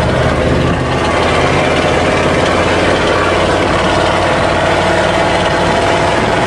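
Ford truck's diesel engine running steadily under way, heard from inside the cab with road noise.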